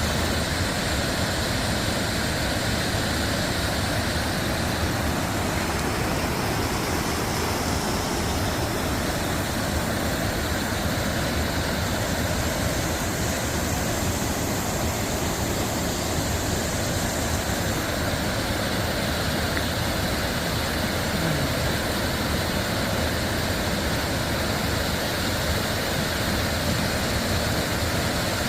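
Mountain valley stream rushing steadily, an even unbroken sound of flowing water.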